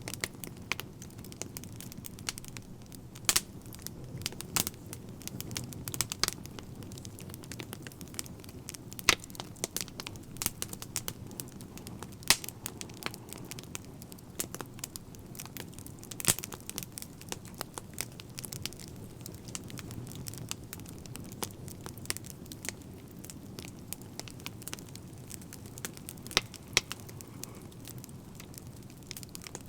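Wood fire crackling: a steady low rumble of burning with frequent irregular sharp pops and snaps, a few much louder than the rest.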